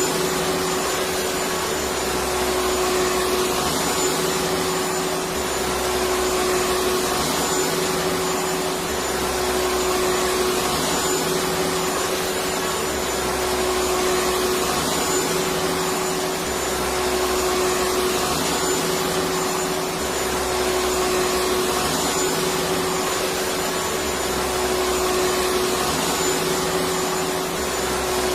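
Electric vacuum cleaner running continuously: a steady rush of air noise with a constant motor hum, the low end pulsing gently about every two and a half seconds.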